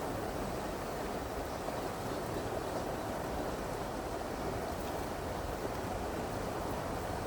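Steady rush of a stream's flowing water, an even hiss without pauses.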